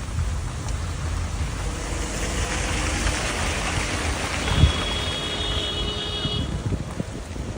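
Road vehicle noise: a steady low rumble and rushing, with a high steady whine for about two seconds past the middle and a single thump just before it.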